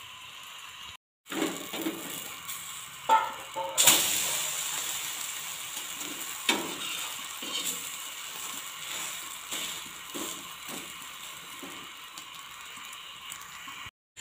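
Omelette sizzling on a hot iron tawa, with a spatula scraping and knocking against the pan. About four seconds in the sizzle jumps up loudly as the omelette is flipped, then slowly fades.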